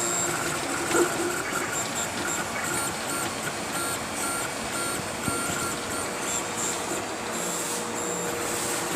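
Filament 3D printer running a print: its stepper motors whine in short stop-start moves, with a few pitches that come and go over a steady background hum.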